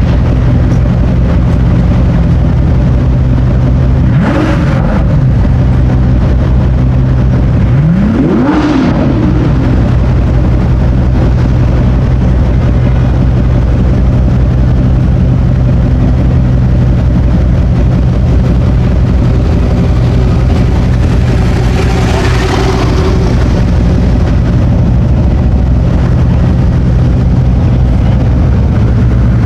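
A car engine idling close by with a steady tone, blipped twice in quick rev-ups and back down at about four and eight seconds in. A swell of passing-vehicle noise comes about two-thirds of the way through.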